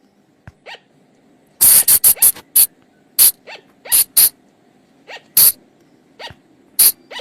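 Sunda flying lemur (colugo) giving a series of short, sharp calls at irregular intervals, with a quick run of about five calls together a second and a half in.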